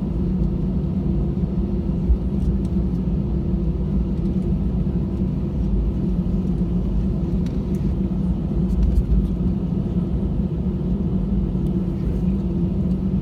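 Steady rumble inside the cabin of an Airbus A320-214, its CFM56 engines running at an even, low power with a constant hum.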